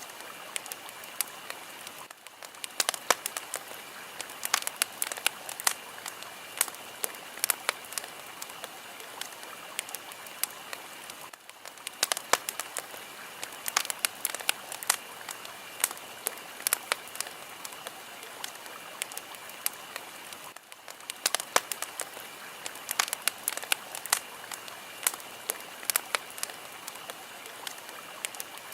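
Fire crackling: a steady hiss with frequent sharp pops and snaps. The level dips briefly about every nine seconds.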